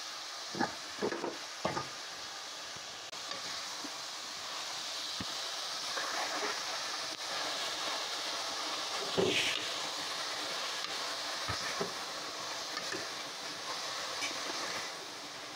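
Spinach frying in a pot with masala, hissing steadily, with a spoon knocking and scraping against the pot three times about a second in and a couple more times around the middle as it is stirred.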